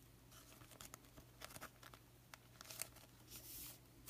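Faint handling of trading cards and plastic sleeves: scattered small clicks and a brief rustle about three and a half seconds in, over a low steady electrical hum.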